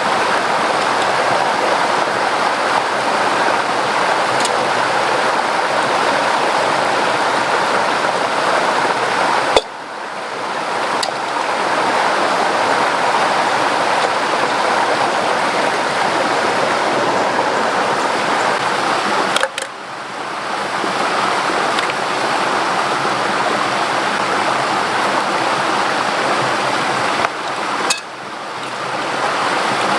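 Steady rushing of water. The sound drops suddenly three times, near 10, 20 and 28 seconds, and each time swells back up.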